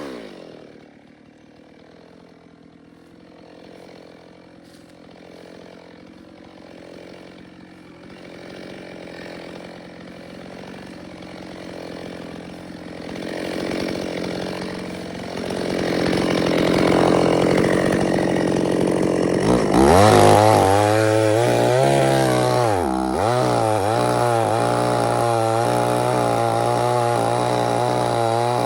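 Chainsaw throttled down from full speed to idle at the start, idling for about ten seconds, then run up again. From about two-thirds of the way through it runs at high speed, its pitch dipping and recovering over and over as it cuts.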